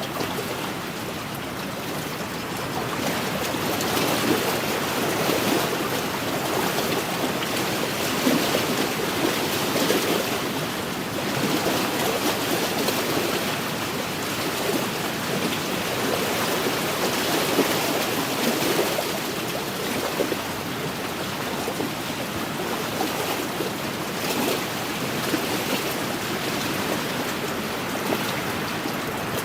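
Wind-driven waves lapping and splashing on an inland lakeshore: a continuous watery wash that swells and eases every few seconds.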